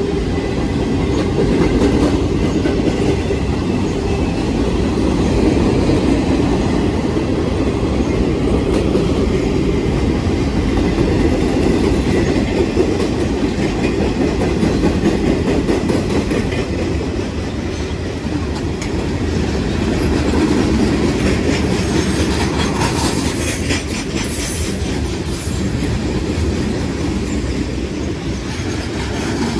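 A train's cars rolling steadily past, wheels clacking over the rail joints. A denser run of sharp metallic clicks and clanks comes about three quarters of the way through.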